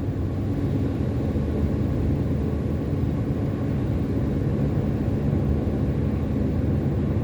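Steady low drone of a car's engine and road noise heard from inside the cabin while driving.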